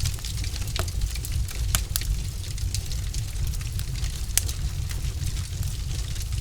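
Wood fire burning in a fireplace: a steady low rumble of flame with scattered sharp crackles and pops from the logs.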